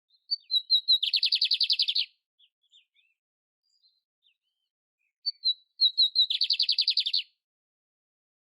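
A canary (canário-império) singing two short song phrases, each opening with a few quick high whistled notes that run into a rapid, even trill of about a second; the second phrase begins about five seconds in.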